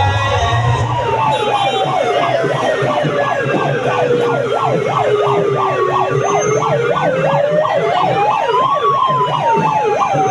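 Siren with two tones together. A slow wail falls for about six seconds, rises again and starts to fall near the end, while a fast yelp warbles up and down about four times a second over it.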